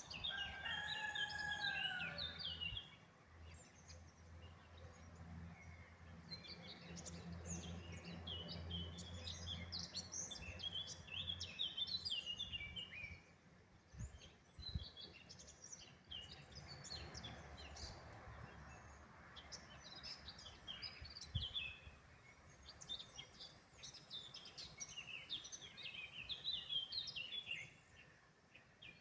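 Dawn chorus of songbirds, many short chirping and warbling phrases overlapping throughout, with a rooster crowing once at the start. A low steady rumble runs under the birds through the middle.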